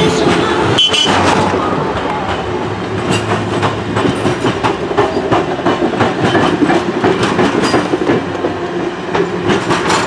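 Passenger coaches of a train rolling past at speed: steady rail noise with irregular sharp clacks of steel wheels over rail joints. The last car goes by and the noise eases off a little.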